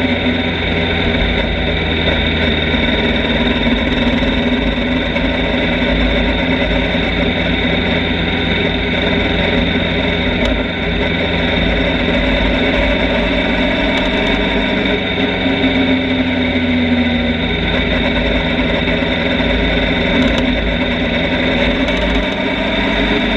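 Motorcycle engine running at a steady cruising speed, its pitch drifting only slightly, with wind buffeting the microphone.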